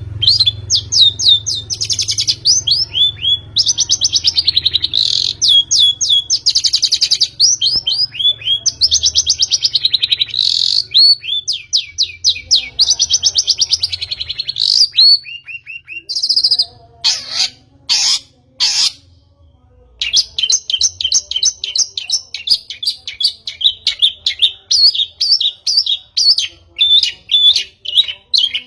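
Long-tailed shrike (pentet) singing in a fast, chattering stream of rapid trills and quick down-slurred notes. A little past halfway the song breaks for a few short harsh rasping calls, then the chattering resumes.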